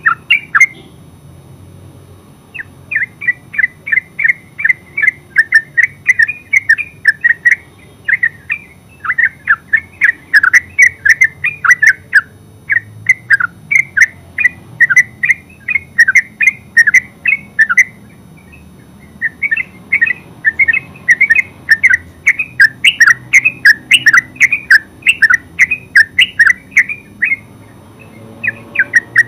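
Yellow-vented bulbul singing in long runs of rapid, repeated chattering notes, with short pauses between runs: near the start, a little past halfway and near the end.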